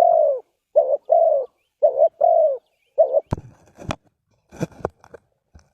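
Spotted dove cooing: several phrases, each a short low note followed by a longer one. The cooing stops about three seconds in and is followed by a run of sharp knocks and rustling.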